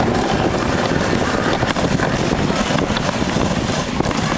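Steady rushing noise with wind buffeting the microphone, as on a moving dog sled.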